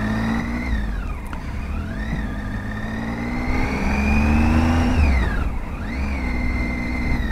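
Triumph Tiger 800's three-cylinder engine running on the move, its pitch rising slowly as it gathers revs, dropping about five seconds in, then climbing again, over a low rumble.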